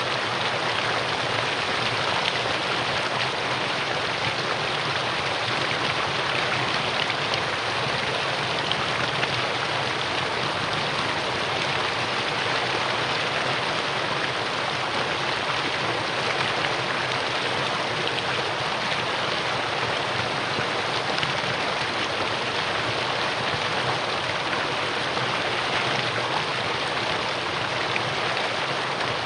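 Mountain valley stream flowing steadily, a constant even rush of water.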